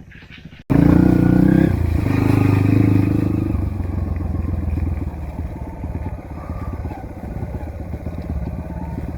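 Trail dirt bike engine cutting in abruptly just under a second in, revving hard for a few seconds, then running on at lower, uneven revs.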